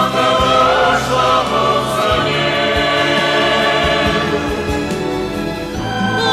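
Music: a choir singing held chords over orchestral accompaniment, with a wavering voice line near the start.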